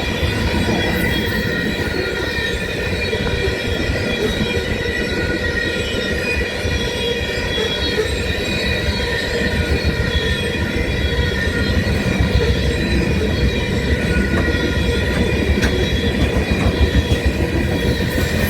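Freight train of garbage cars rolling past, its cars rumbling steadily on the rails while the wheels give a continuous high squeal throughout.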